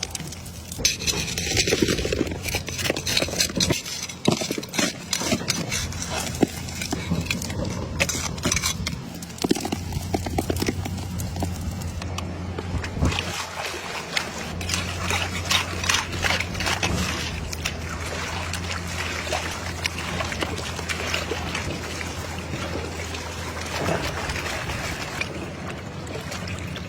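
Water sloshing and sand and gravel scraping and rattling in a gold pan as it is worked, with many irregular small clicks and a steady low hum underneath.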